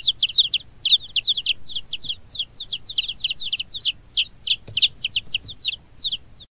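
Baby chicks peeping: a rapid, continuous run of high, downward-sliding cheeps, several a second.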